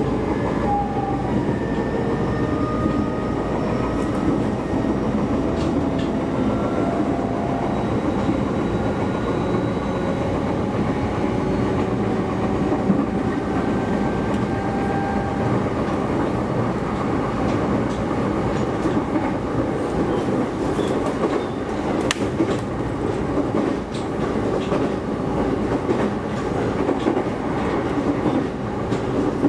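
Shinano Railway SR1 series electric train running along the line: a steady rumble of wheels on the rails, with occasional clacks. Thin whines rise slightly in pitch over the first several seconds.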